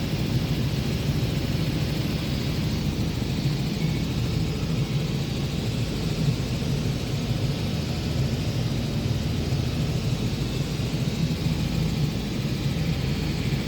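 Helicopter in flight: a steady, unchanging drone of rotor and engine, strongest in the low range.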